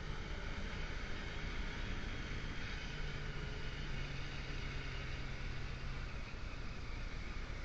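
Motorcycle engine running at a steady cruise, mixed with wind and road noise. Its low engine note drops away about six seconds in.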